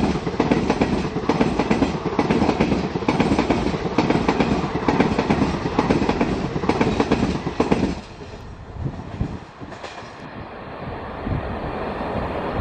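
Passenger train of ICF coaches passing close by at speed, the wheels clattering over the rail joints in a dense, rapid clickety-clack. About eight seconds in the last coach goes by and the sound drops suddenly to a fainter rumble of the train moving away.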